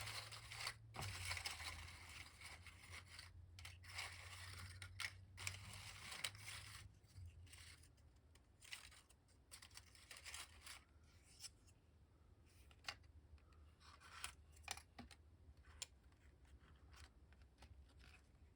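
Faint rustling and sliding of paper and cardstock portrait cards being handled for the first several seconds, then scattered light taps and clicks.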